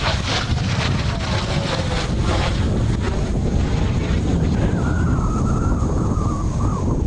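Strong wind buffeting the microphone, with the distant turbofan whine of Blue Impulse Kawasaki T-4 jets overhead; from about five seconds in a high jet whine slowly falls in pitch.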